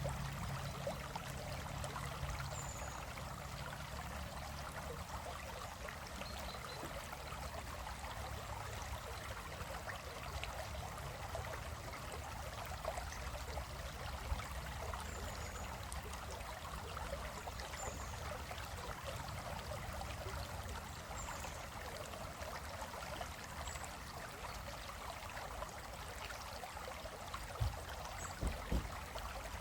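Small stream flowing and trickling over rocks, a steady burbling rush. A few faint high chirps come every few seconds, and a few short low knocks sound near the end.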